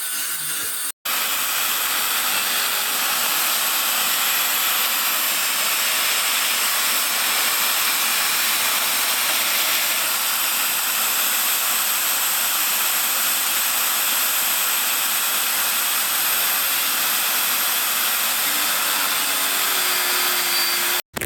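Angle grinder cutting through steel angle iron: a steady, even hiss with a thin high whine, held for the whole cut as the flange of the angle is sliced off.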